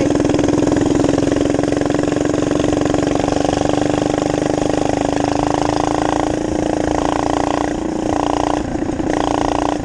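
Minibike engine running steadily under way, its note swelling and dropping three or four times in the last few seconds as the throttle changes.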